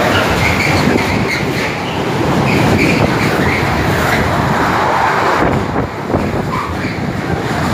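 Freight train of container wagons and tank containers passing close at speed, a steady loud rumble of wagons and wheels on the rails that eases slightly about six seconds in.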